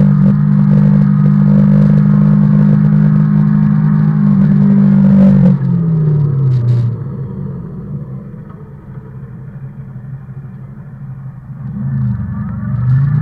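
Motorcycle engine running at steady speed, then dropping in pitch as it slows about five or six seconds in, running quieter for several seconds, and rising in pitch as it speeds up again near the end.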